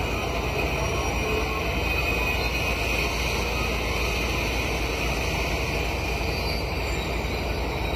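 Steady rumble and hiss of a train with a Pakistan Railways RGE-24 diesel locomotive moving through a station, with a higher squealing band over the rumble.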